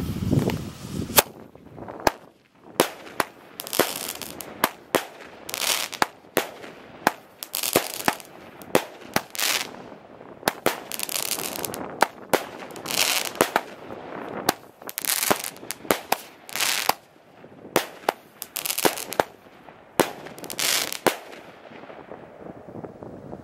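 Firework battery (16-shot cake) firing its shots one after another: a long run of sharp bangs, irregularly spaced, with short rushing hisses between them, stopping a couple of seconds before the end.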